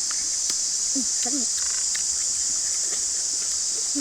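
Steady, high-pitched chorus of insects shrilling continuously, the loudest sound throughout.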